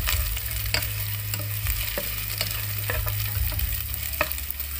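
Chopped fried tilapia, chicken gizzard, garlic and onion sizzling in oil in a nonstick pan as a spatula stirs them, with scattered clicks and scrapes of the spatula against the pan. A steady low hum runs underneath.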